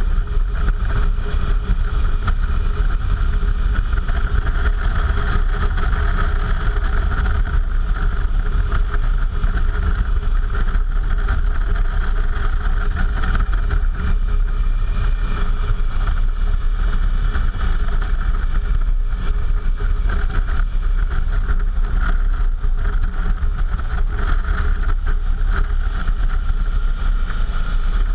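Suzuki V-Strom's V-twin engine running at a steady pace while riding, under heavy low wind rumble on the action-camera microphone.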